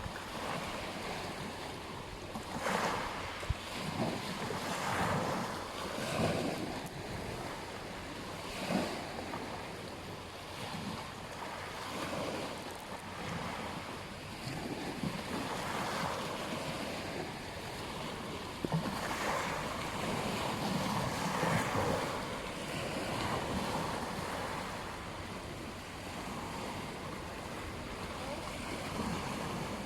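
Ocean waves breaking and washing on a beach, the surf swelling and fading every few seconds, with some wind on the microphone.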